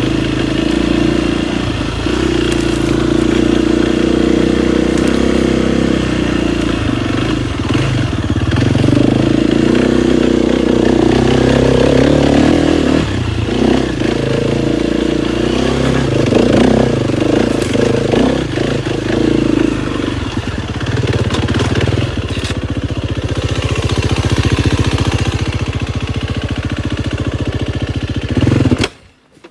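KTM 250 XCF-W single-cylinder four-stroke dirt bike engine running under way, its pitch rising and falling again and again as the throttle opens and closes. The sound cuts off abruptly just before the end.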